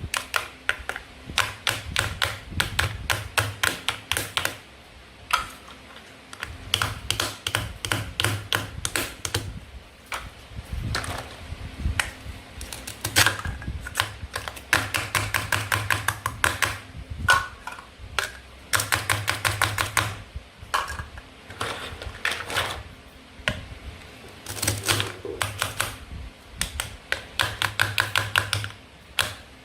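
Rapid runs of small plastic clicks and taps, several a second, with short pauses between the runs: plastic toy food pieces being handled and cut.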